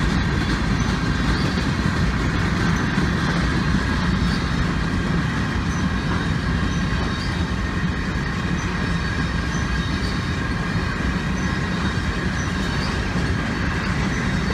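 Empty flatcars of a freight train rolling past, a steady noise of wheels on the rails.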